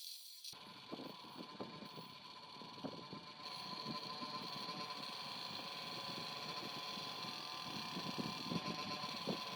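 A motor-driven machine running steadily, with a constant whine and hiss and irregular clinks and knocks over it; it starts suddenly about half a second in.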